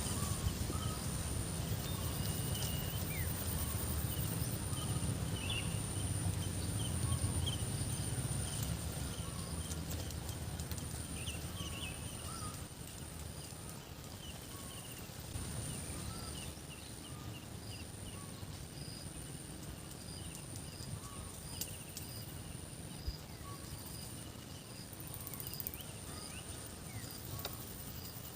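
Rural outdoor ambience: a low rumble fades over the first half, under a steady high-pitched whine and many short, faint chirps.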